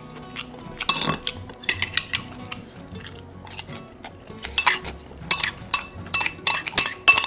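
Cutlery clinking against dishes: a scattered run of short, sharp, ringing clinks, coming thicker in the second half.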